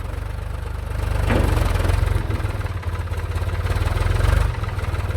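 Forklift engine running at low revs as the machine works its load, swelling slightly about a second in and again near four seconds.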